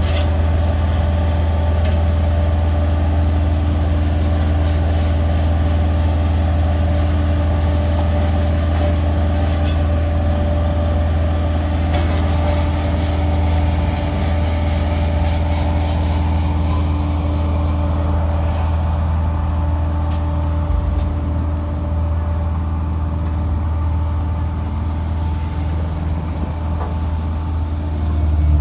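A motor engine running steadily, with a strong low hum and a few steady higher tones. The tone shifts slightly about two-thirds of the way in.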